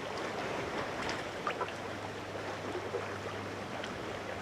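Water lapping and trickling around a kayak, with a few small drips and splashes, likely from the paddle.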